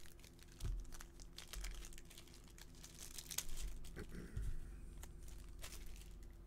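Trading cards and their plastic packaging being handled: crinkling and rustling with scattered sharp clicks and taps, over a faint steady hum.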